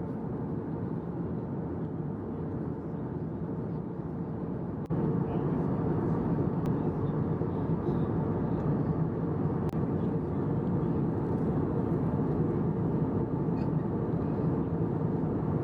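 Airliner cabin noise: a steady low drone of the engines and airflow, stepping up louder about five seconds in.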